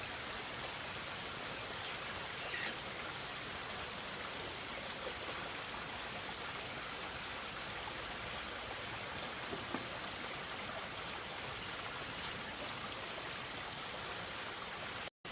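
Steady rushing of flowing stream water, with a faint, steady high-pitched whine over it.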